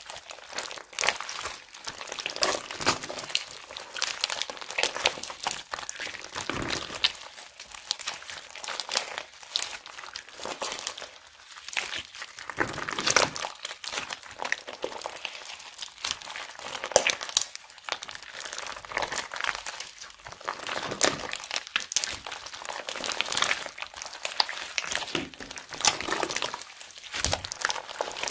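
Slime being squeezed and mixed in plastic bags: a dense, irregular crinkling of plastic with sharp crackles and clicks throughout.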